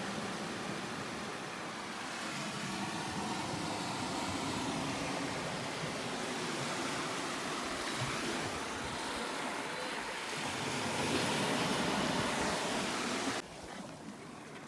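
Steady rushing of water. It drops suddenly to a quieter hiss near the end.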